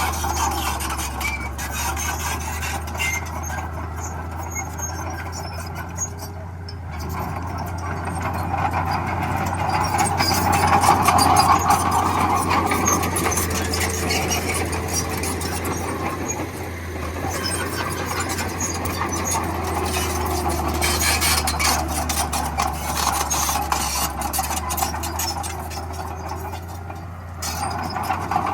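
Crawler bulldozer's diesel engine running steadily under load, swelling loudest about eleven seconds in and easing off twice.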